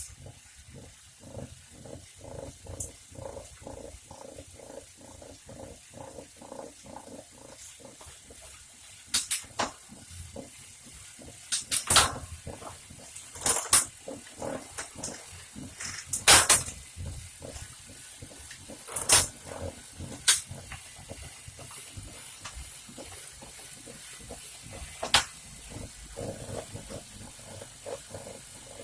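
Wahoo Kicker Snap bike trainer running under a pedalled bike, with a rumble that pulses about twice a second; the owner takes it for a fault in the trainer. Several sharp clicks or knocks stand out in the middle.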